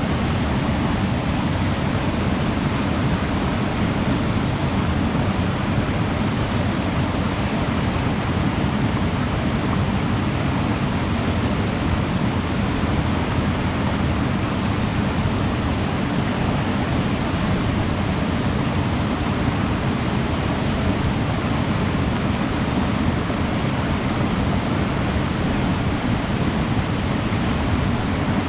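Waterfall pouring steadily, a constant rushing of falling water, heaviest in the low range.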